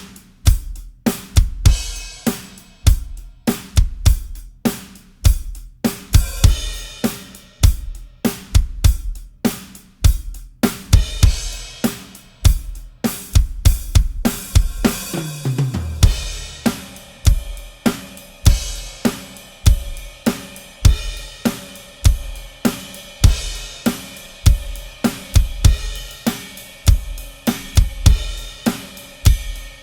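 Drum kit played in a steady groove with Avus Genext brass cymbals: kick and snare under hi-hat, with crash and ride cymbals washing in from about the middle. Around the middle there is a fill of hits falling in pitch down the toms.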